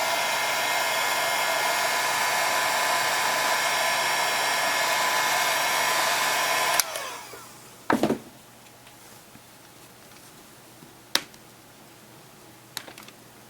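An electric hot-air blower runs steadily with a whining hum, heating the device's plastic to soften it around the screws, and then switches off abruptly about seven seconds in. A few light clicks and taps follow, from small parts being handled.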